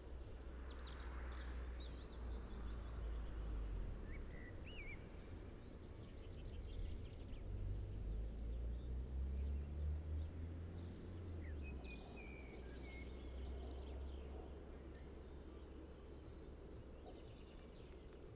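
Low, steady rumble of a freight train, with a faint engine tone that rises in pitch for a few seconds midway, while birds chirp now and then.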